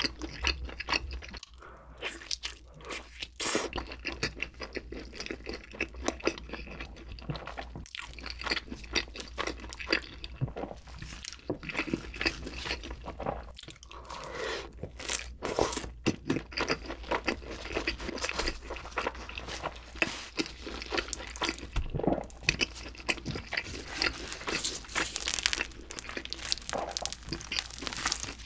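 Close-miked chewing and crunching of thick pizza crust, a dense run of crisp crackles and bites.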